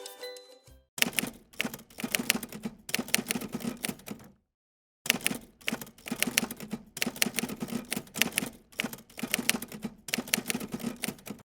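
Rapid, sharp mechanical clicking in quick bursts, like keys being struck, broken by a sudden cut to silence a little over four seconds in before resuming.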